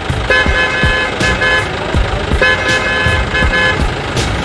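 Vehicle horn honking: two runs of quick, repeated honks, each about a second long, over a low rumble with knocks.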